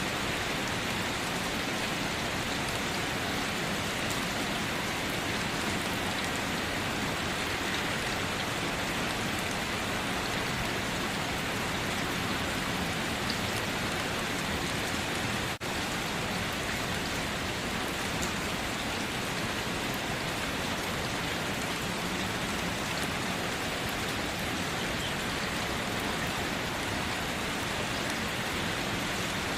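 Steady, dense rain falling, an even hiss of many drops, with a momentary dip in level about halfway through.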